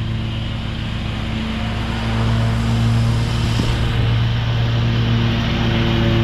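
Commercial lawn mower engine running steadily with its cutting deck engaged, mulching leaves; the engine note grows louder about two seconds in.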